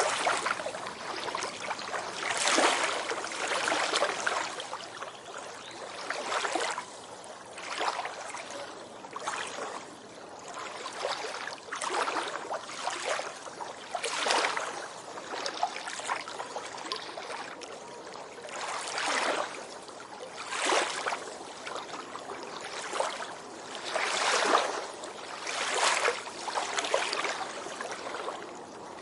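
Ocean waves washing onto a beach: repeated swells of surf hiss, each rising and falling away, one every second or two.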